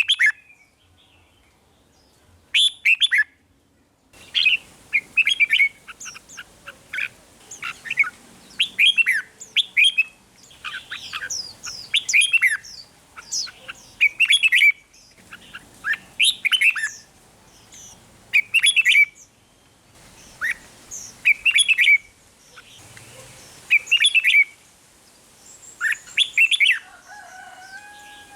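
Red-whiskered bulbul singing: short phrases of quick, chirping warbled notes, a phrase every second or two, after a pause of a couple of seconds at the start.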